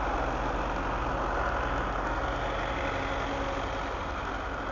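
A distant train approaching: a steady low engine hum under an even rushing hiss.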